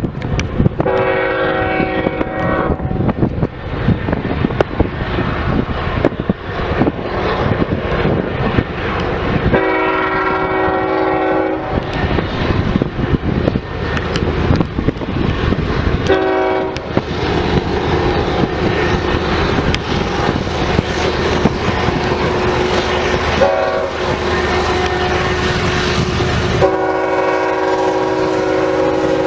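Diesel freight locomotive's multi-chime air horn sounding the grade-crossing signal: two long blasts, a short one, then a long one near the end. Underneath is the rumble of the passing train and heavy wind buffeting the microphone.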